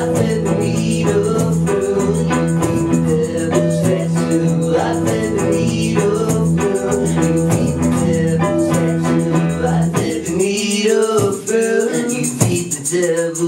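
Live rock band playing a song with a fast, steady rattling rhythm over a held low bass line. The bass drops out about ten seconds in, leaving the rhythm and the upper parts.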